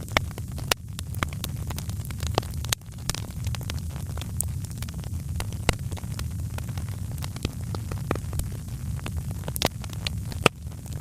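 Wood fire crackling in a fireplace: irregular small crackles and sharper pops over a steady low rumble of the flames.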